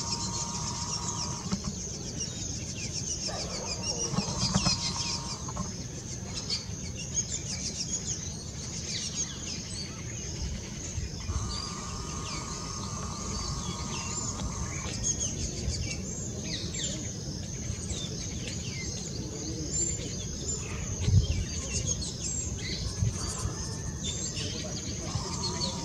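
Outdoor bird calls: busy, high chirping and twittering from several birds throughout, with four drawn-out, buzzy lower calls of two to three seconds each. A brief low thump comes late on.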